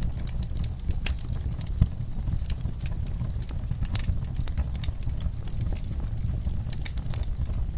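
Wood fire in a fireplace crackling, with irregular sharp pops over a low, steady rumble of flames. One louder pop comes about two seconds in.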